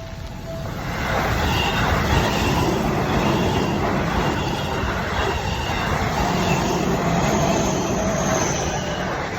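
Seibu Shinjuku Line electric train passing over a level crossing. Its wheels rumble and clatter on the rails, building from about a second in and holding loud, with a faint high wheel squeal near the end. At the very start the crossing bell's repeating ding is heard before the train drowns it out.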